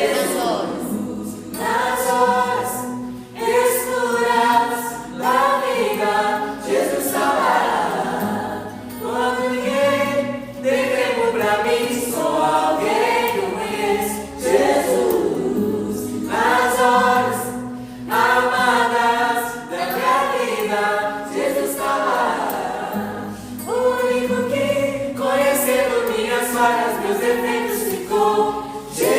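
Mixed choir singing a gospel worship song in several voices over a backing track with steady bass notes.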